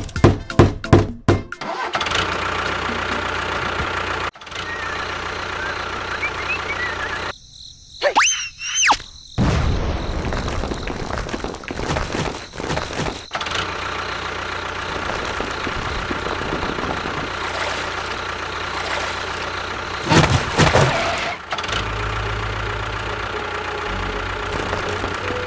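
A motor running with a steady hum, clicking at the start, dropping out briefly about a third of the way in, with a short loud burst later on.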